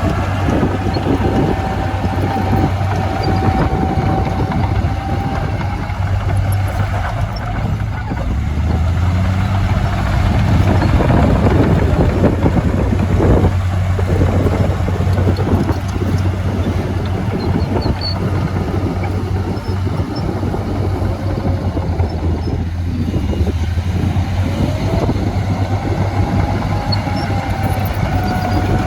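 Komatsu bulldozer's diesel engine running under load with a steady low drone and constant rattling and clanking, plus a whine that rises and falls at the start and again near the end.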